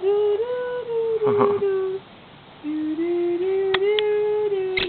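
A woman humming two long, drawn-out notes in a low voice, the pitch stepping slightly up and down, with a short break about two seconds in.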